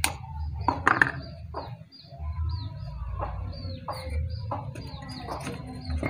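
Small birds chirping: short, high chirps that drop in pitch, about two a second, with a couple of sharp knocks in the first second.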